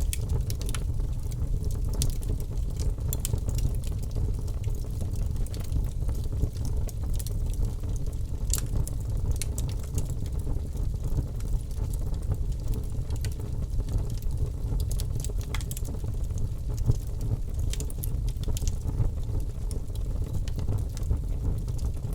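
Birch logs burning in a fireplace, crackling with many sharp, irregular pops over a steady low rumble of the flames.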